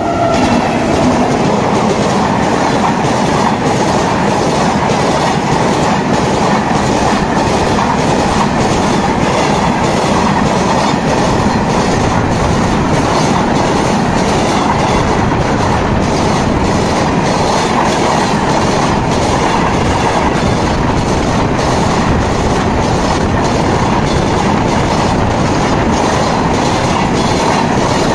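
Train running along the track: a steady rumble with the wheels clicking over the rail joints at an even beat.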